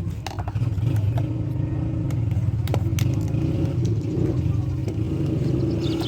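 A steady low engine-like rumble with scattered sharp clicks and taps. Near the end a bird starts a fast run of chirps.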